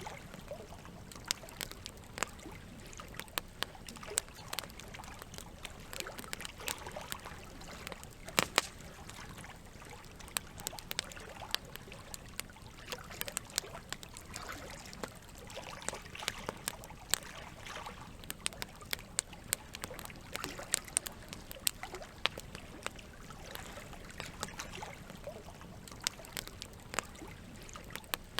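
Wood fire crackling, with frequent irregular sharp pops (one louder snap about eight seconds in), over a steady trickle of running water.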